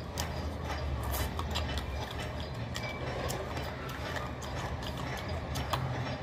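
Close-up chewing and lip-smacking of a person eating fried meat by hand: a run of irregular clicks over a steady low hum.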